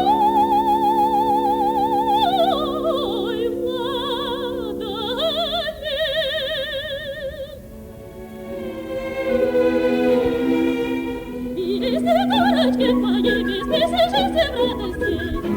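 Operatic soprano singing sustained high notes with wide vibrato, stepping down over a held orchestral chord; from about halfway the symphony orchestra plays on, growing busier near the end. Live radio-broadcast recording from the 1950s.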